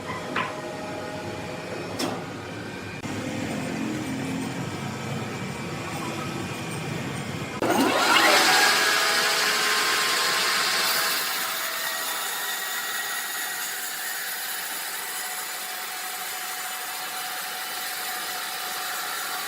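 Sawmill machinery running. About eight seconds in, a saw spins up with a rising whine and cuts into a red oak log with a loud, high rushing noise that eases off a few seconds later but keeps going.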